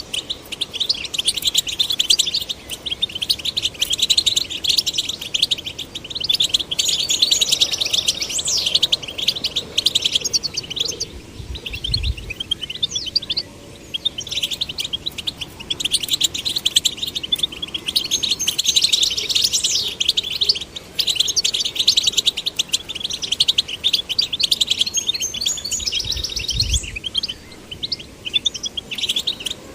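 European goldfinch song: fast, tinkling twitters and trills that run on almost without a break, pausing briefly about halfway through and again near the end.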